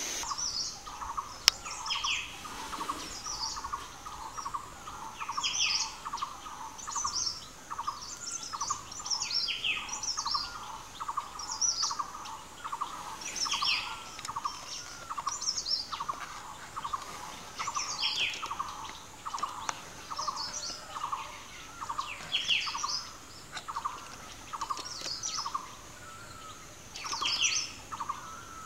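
Wild forest birds calling: one repeats a single low note about twice a second, while others give higher calls every couple of seconds, over a steady high-pitched drone. The calls are live forest ambience, not added afterwards.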